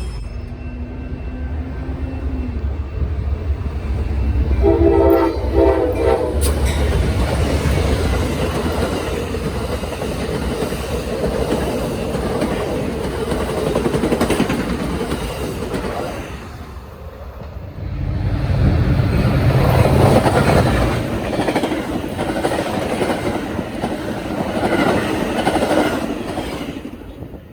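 Diesel-hauled train passing close by, with a short horn chord about five seconds in, then the steady rumble of the locomotives and the cars clicking over the rail joints. A second swell of engine rumble comes about twenty seconds in.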